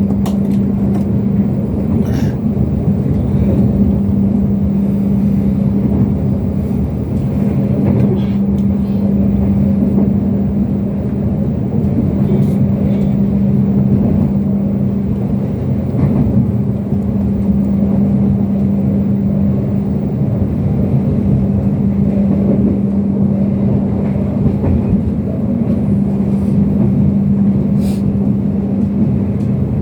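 Turangga passenger train rolling past on a curve: a steady, loud rumble of wheels on rail with a constant low hum throughout, and a few faint clicks.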